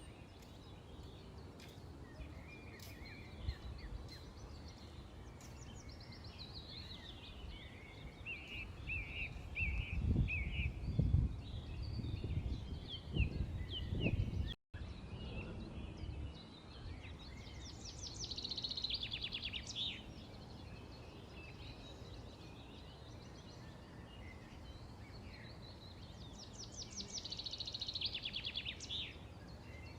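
Small birds chirping, with many short calls and rapid trills about two-thirds of the way through and again near the end. A low rumble swells in the middle, and the audio cuts out for an instant about halfway.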